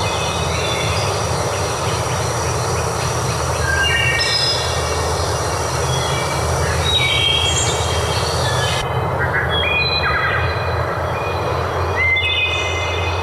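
Steady rush of flowing water, with songbirds singing short, stepped whistled phrases over it several times.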